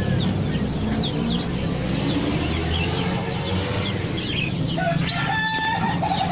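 Chickens clucking, with a long falling crow from a rooster starting about five seconds in, over many small birds chirping throughout.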